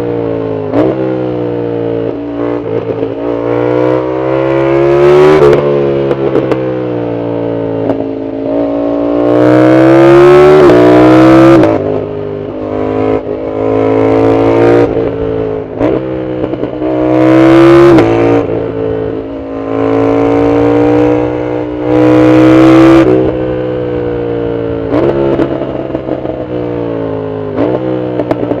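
Yamaha MT-07's parallel-twin engine through a loud aftermarket Arrow full exhaust, heard from the rider's seat while riding hard. The pitch climbs under throttle and then drops sharply at each gear change or roll-off. This happens about four times, with the loudest pulls near the top of each climb.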